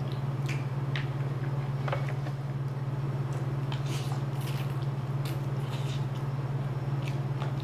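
Chewing and mouth sounds of someone eating stir-fried shrimp and rice close to the microphone: scattered short wet clicks and smacks, over a steady low hum.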